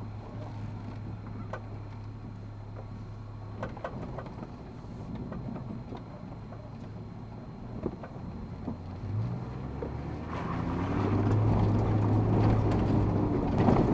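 Four-wheel-drive vehicle engine idling steadily, heard from inside the cabin, then crawling off up a steep rocky dirt track, with occasional clicks and knocks. About ten seconds in, the engine note rises and gets much louder as it pulls up the climb.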